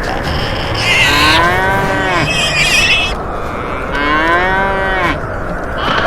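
Cow mooing twice, each moo about a second long, rising and then falling in pitch, with a brief higher fluttering sound between the two moos.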